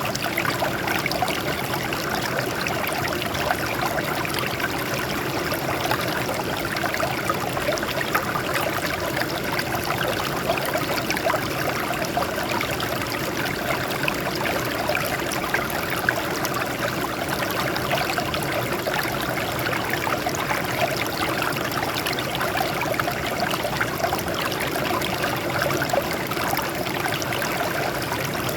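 Water flowing and splashing over rocks in a steady, even stream.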